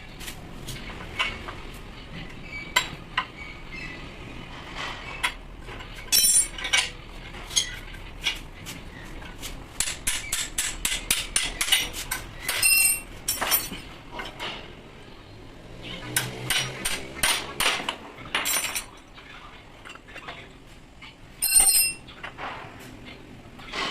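Metal tools and rotary-hammer parts being tapped and handled on a workbench: irregular sharp metallic taps and clinks, including quick runs of light taps and several ringing metal clinks.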